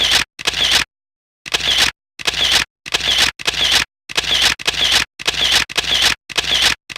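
Camera shutter sounds, about a dozen in quick succession, roughly two a second, each a short click-and-whir with dead silence between them: a shutter sound effect repeated over a photo sequence.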